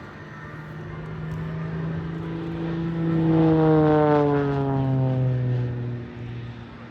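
Extra NG aerobatic plane's piston engine and propeller droning. The sound grows to its loudest about halfway through while its pitch falls steadily, then fades near the end.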